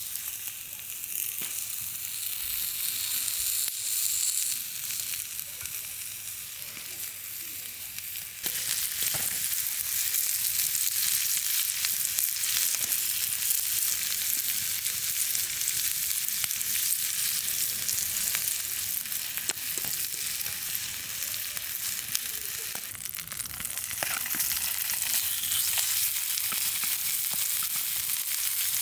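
Food frying in a pan, with a steady sizzling hiss and small crackles. The sizzle suddenly gets louder about eight seconds in.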